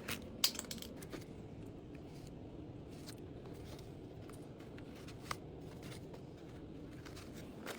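Rustling and handling noise of small items and packaging being sorted and packed, with a few light sharp clicks, the loudest about half a second in and another about five seconds in.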